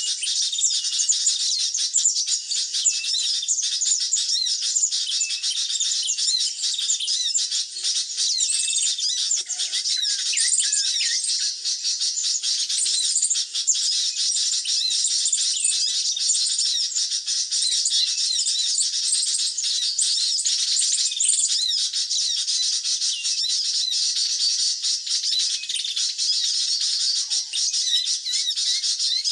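Dense, continuous high-pitched chirping and twittering of small songbirds, many short calls overlapping without a break.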